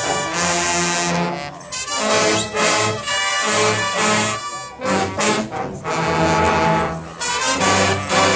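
Bolivian brass band playing a cumbia, with trumpets and trombones carrying the tune. The music comes in phrases with short breaks about every two to three seconds.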